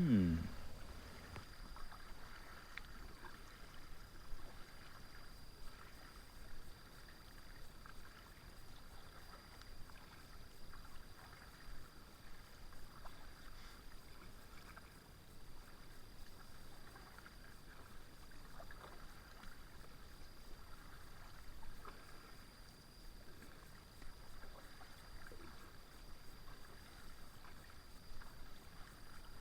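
Kayak paddle strokes dipping into the river, soft and irregular water splashes.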